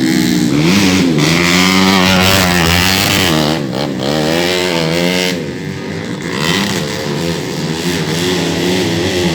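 Several 130cc underbone (bebek) racing motorcycles revving hard, their overlapping engine notes rising and falling as they accelerate and back off.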